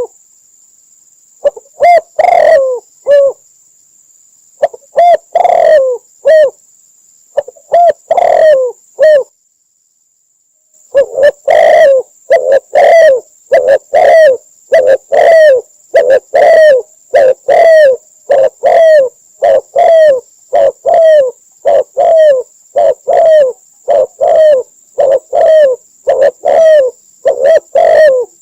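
Spotted dove cooing: repeated low, hoarse coo phrases. They come in scattered groups at first, stop dead for about a second and a half, then resume as a steady, rapid run of calls.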